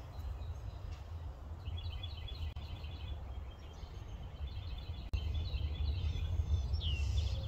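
Birds chirping in the background in quick repeated trills, with a falling call near the end, over a steady low rumble.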